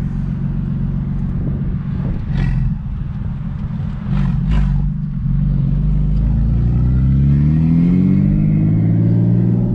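Big-turbo BMW 335i's turbocharged inline-six running low in the rev range, with a few sharp pops about two and four and a half seconds in, then revving steadily higher through the second half as the car accelerates.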